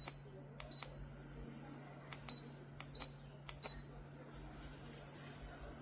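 Buttons on an electric tower space heater being pressed five times in about four seconds, each press a sharp click followed by a short high beep, over a steady low hum.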